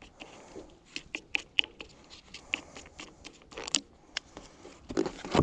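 Irregular light clicks, taps and scratches of a discarded electric fan being handled as it is taken apart, with a couple of louder knocks near the end.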